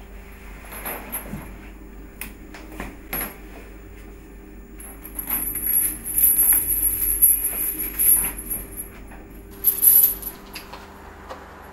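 Bursts of bright metallic jingling, about five to eight seconds in and again near ten seconds, with scattered clicks over a low steady drone.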